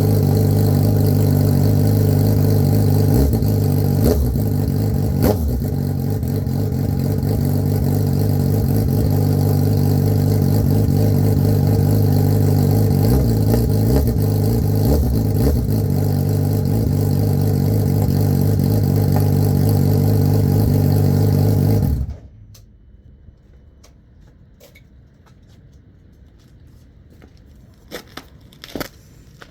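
Suzuki Hayabusa's inline-four engine idling steadily as it warms up after a cold start, then switched off about 22 seconds in. After it stops there are only a few faint clicks.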